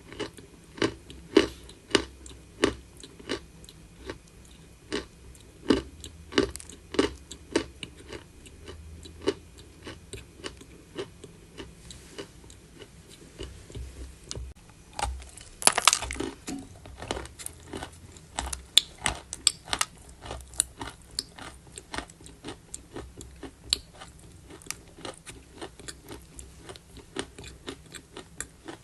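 Close-miked crunching of chalk being bitten and chewed, a long series of sharp, separate crunches. The crunches come about once or twice a second at first, one much louder crunch comes just past halfway, and then they turn quicker and softer.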